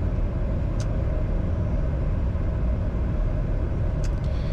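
Steady cockpit noise of a Bombardier Challenger 605 on final approach with the landing gear down: a low rumble of airflow and engines. A faint tick sounds about a second in and again near the end.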